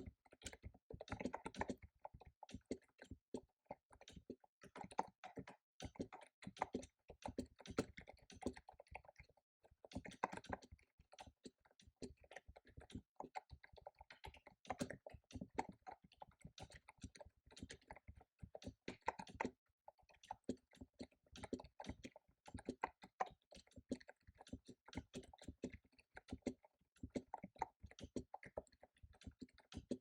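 Computer keyboard being typed on in quick runs of key clicks, with brief pauses between bursts.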